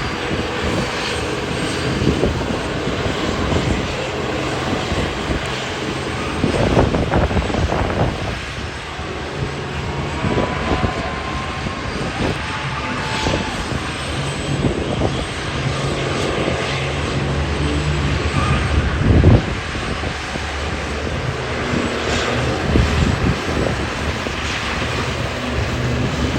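Loud, continuous engine noise from high-horsepower diesel trucks, the pitch shifting as they run and rev.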